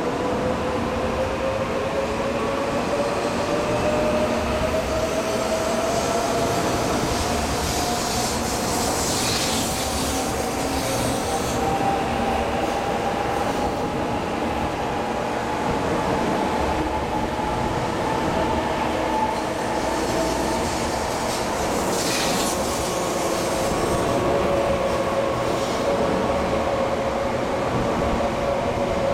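JR Central 300 series Shinkansen pulling out of the station and slowly gathering speed. Its traction motors give a whine that climbs steadily in pitch over a continuous rumble of wheels on rail, with a couple of short hisses.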